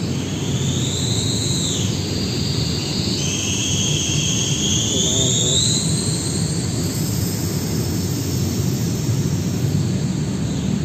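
A passing train: a steady low rumble with a high-pitched wheel squeal that glides upward, breaks off and returns in the first half, then fades out past the middle.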